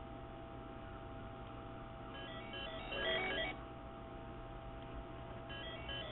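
An iMac's failing hard drive at boot, giving off a short burst of chirping, beeping tones that repeats about every three seconds over a steady hum, twice here. The owner takes the repeating noise for a warning of a problem with the drive.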